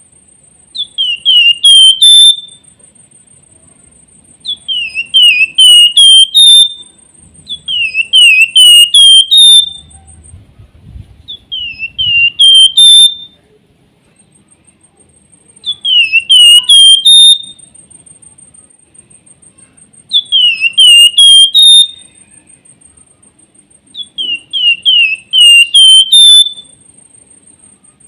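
Javan fulvetta (flamboyan) singing: a loud phrase of four or five downward-slurred whistled notes, about a second and a half long, repeated every three to four seconds. A thin, steady high-pitched buzz runs underneath, with a gap in the middle.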